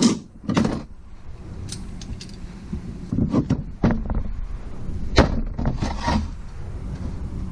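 Small metal valve-train parts (valves, springs, keepers) being pulled from a motorcycle cylinder head and set down. Irregular clinks and knocks, several in quick succession about three seconds in and again around five to six seconds.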